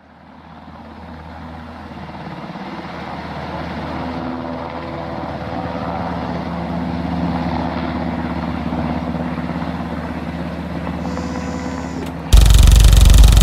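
Helicopter engine and rotor sound growing steadily louder over the first few seconds, then holding. Near the end a much louder, dense engine-like sound cuts in abruptly.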